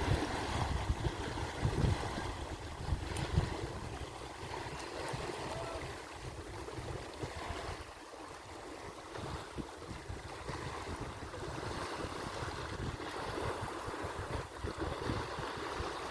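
Wind buffeting the microphone in gusts, over a steady wash of lake waves. The gusts are strongest in the first few seconds and ease off about halfway through.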